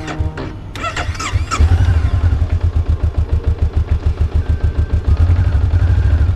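A 2022 Honda CB500F's parallel-twin engine starting on a cold start: it catches about a second and a half in and settles into a steady, fast-pulsing idle.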